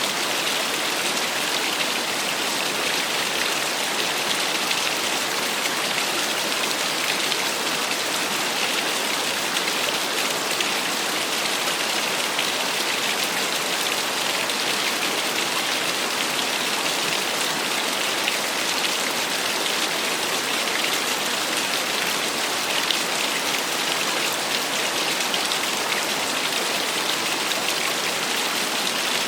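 Small waterfall splashing steadily: an even, unbroken hiss of falling water, mostly high and bright with little low rumble.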